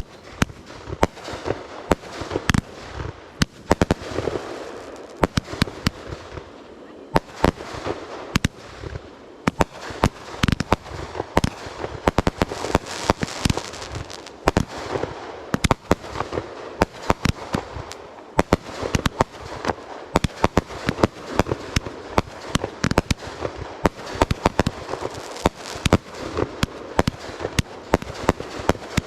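Aerial fireworks display: a steady barrage of booms and sharp cracks, several a second, over continuous crackling.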